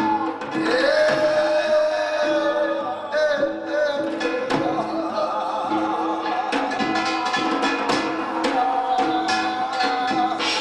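Korean binari blessing chant: a male voice sings long held, wavering notes over a traditional Korean percussion ensemble of drums and gongs struck in a steady rhythm.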